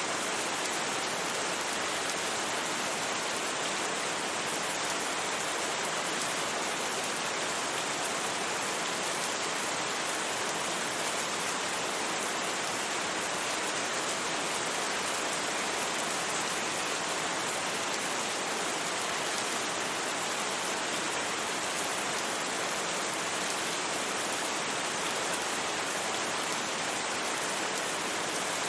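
Steady rain, an even hiss that does not change, with no single drops or thunder standing out.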